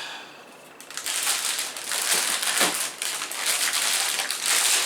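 Plastic packaging being handled and crinkling, a dense run of crackles and rustles that starts about a second in.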